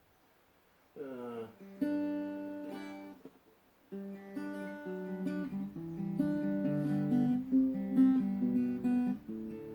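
Guitar music with plucked and strummed notes, starting about a second in after near silence, with a short break about three and a half seconds in.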